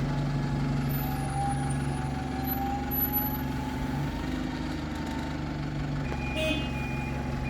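Alexander Dennis Enviro200 bus's diesel engine idling with a steady low hum. About six seconds in, a vehicle reversing alarm starts beeping.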